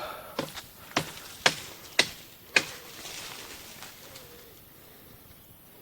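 A run of five sharp cracks, about two a second, then a quieter steady background.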